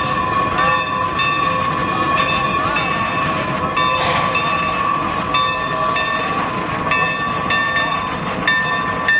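Geared steam locomotive working along the line, with a steady high-pitched ring held throughout and a regular pulsing of higher tones, about one or two a second.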